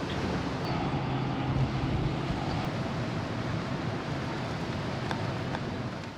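Steady rumble and rush of a moving ferry: low engine drone under wind and water noise.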